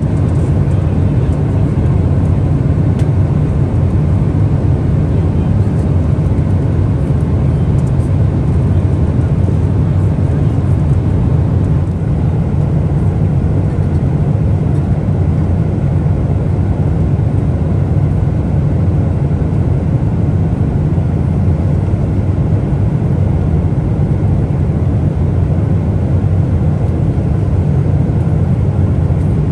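Steady jet engine and airflow noise inside the cabin of a Boeing 777-300ER with GE90 engines. It is an even, deep rumble that holds unchanged throughout.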